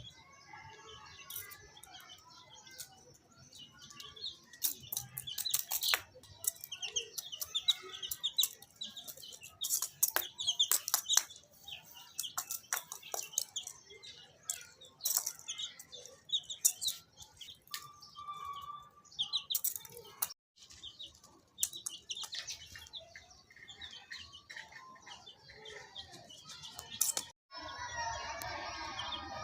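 Baby chicks peeping in many short, high chirps, with sharp clicks scattered among them. The sound cuts out briefly twice, the second time near the end.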